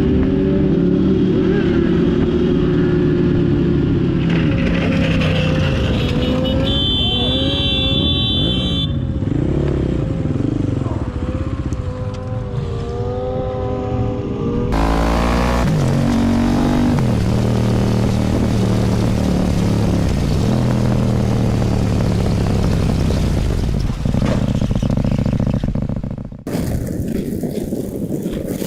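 Motorcycle engines running and revving, their pitch rising and falling with throttle and gear changes. The sound changes abruptly about halfway through and again near the end.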